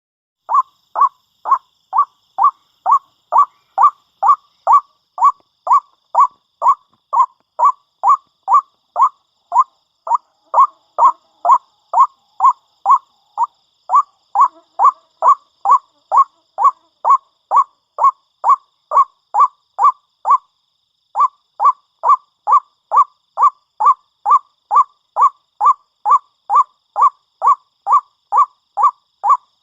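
White-breasted waterhen giving its monotonous repeated call, one short call after another about twice a second, with a brief break about two thirds of the way through.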